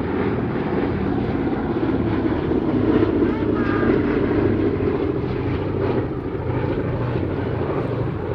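Boeing B-17G Flying Fortress flying past with its four Wright Cyclone radial piston engines running, a dense low drone that swells about three seconds in and eases off toward the end.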